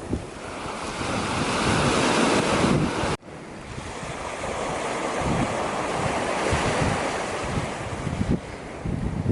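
Black Sea surf washing onto the shore in strong wind, with gusts buffeting the microphone. The sound cuts off abruptly about three seconds in, then the surf and wind carry on.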